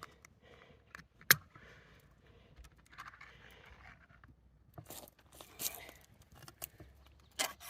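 Handling noises from cooking containers and utensils: one sharp click about a second in, a soft rushing noise lasting about a second around the middle, then a scatter of small clicks and knocks.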